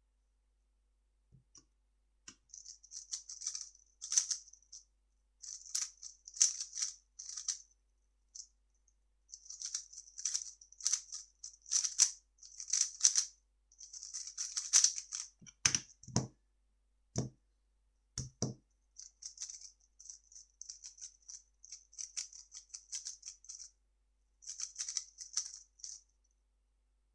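3x3 speedcube being turned rapidly by hand, its plastic layers clicking and rattling in quick flurries with short pauses between them. A few dull thuds come about midway.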